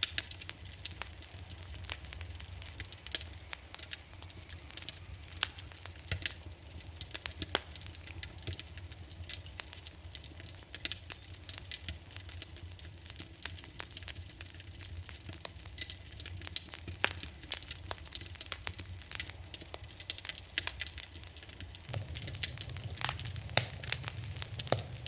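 Wood fire in a fireplace crackling, with irregular sharp pops and snaps over a low steady rumble of the flames; the rumble grows louder near the end.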